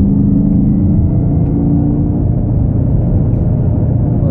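Supercharged 6.2-litre V8 of a 2018 Camaro ZL1 1LE running at a steady cruise, heard from inside the cabin over low road rumble, its note drifting slightly in pitch.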